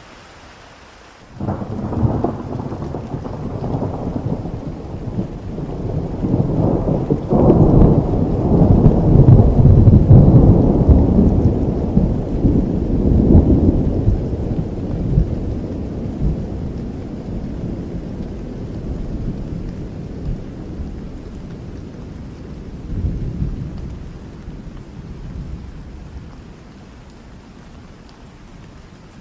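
Steady rain with a long roll of thunder that breaks out suddenly about a second in, swells to its loudest around the middle and rumbles away over some twenty seconds.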